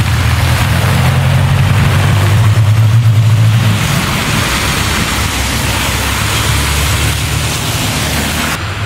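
A car engine running with a steady low drone, loudest for about the first four seconds and then easing off to a quieter, steady running.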